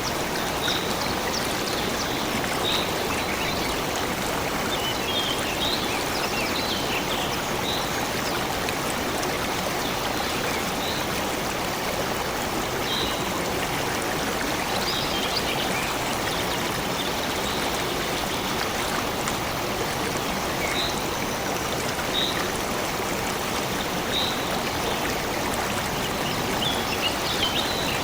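A stream flowing steadily, with short high bird chirps repeating every second or two over the water.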